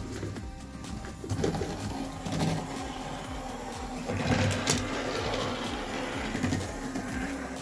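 Model train locomotive running around the track: a steady low motor hum with occasional clicks and rattles from the wheels on the rails, loudest about four to five seconds in.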